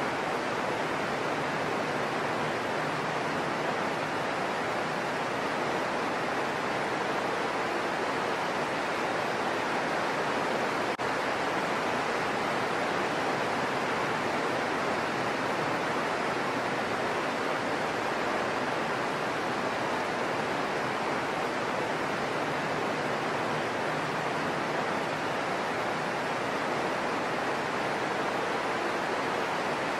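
Heavy rain falling steadily on foliage: a dense, even hiss that doesn't change.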